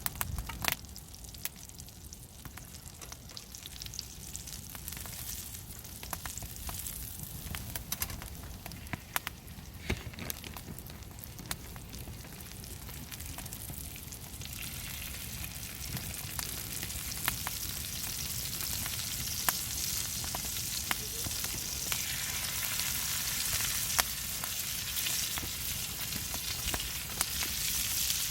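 Oysters frying in garlic butter in a pan, a steady sizzle with scattered pops; the sizzle gets louder about halfway through.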